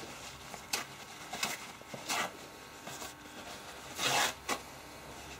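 Paper towel being torn and handled: a few short rustling rips, with the longest and loudest about four seconds in.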